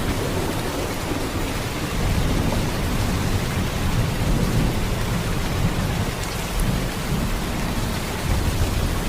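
Heavy rain pouring steadily: a dense, even hiss with a deep low rumble beneath it and no separate thunderclaps.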